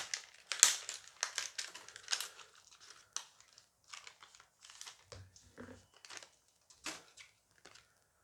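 Dice Masters foil booster pack wrapper crinkling and tearing as it is opened by hand: a run of sharp, irregular crackles, densest and loudest in the first couple of seconds and thinning out after.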